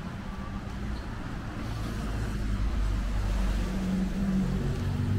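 A motor vehicle's engine hum in street traffic, growing louder over the few seconds as the vehicle draws near.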